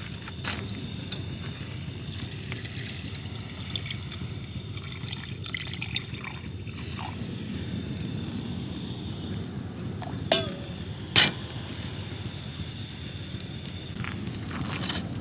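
Liquid dripping and trickling over a steady low background noise, with scattered sharp clicks and knocks, two of them louder about ten and eleven seconds in.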